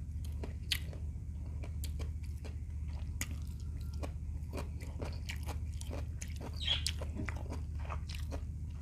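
Close-miked chewing of a mouthful of grape: many quick, irregular wet clicks and smacks, over a steady low hum.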